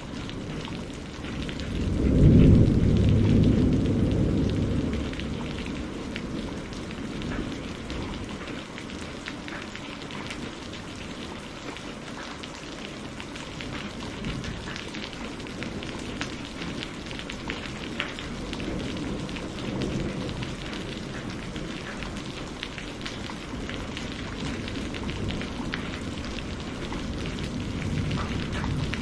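Steady rain with a loud roll of thunder about two seconds in that fades over a few seconds, then fainter rumbles of thunder later on.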